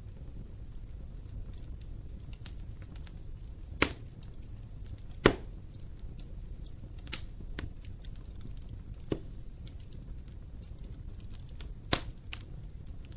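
Wood fire burning in a fireplace: a low steady rumble with scattered light crackles and five sharp pops, the loudest about five seconds in.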